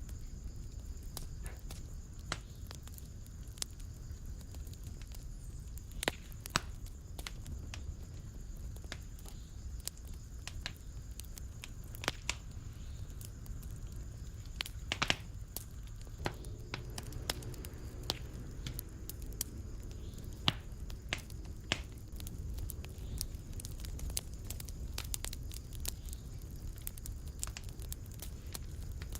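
Fireplace fire crackling: a steady low rumble of flames with frequent sharp pops and crackles, a handful of them louder than the rest.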